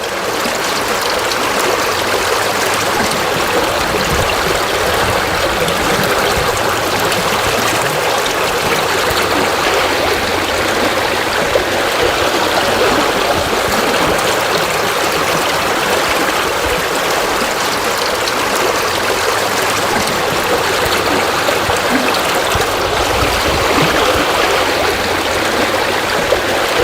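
Waterfall: water falling and splashing into a pool, a steady, even rush that does not change.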